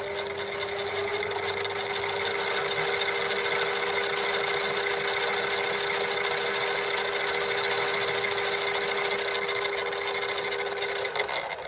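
Metal lathe running under power while the tool takes a light 4-thou cut, a steady motor-and-gear hum with a constant whine over the hiss of cutting. The machine shuts off about 11 seconds in.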